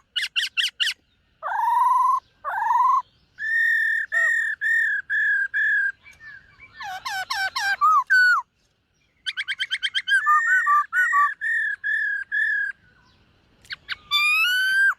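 Black-throated laughingthrush singing: loud, clear whistled phrases of repeated notes, quick trills and rising and falling slurs, broken by short pauses.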